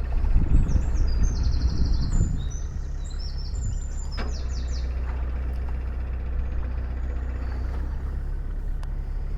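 Narrowboat's diesel engine running steadily with a low hum, louder and rougher for the first two seconds. A small bird chirps and trills over it between about one and four seconds in.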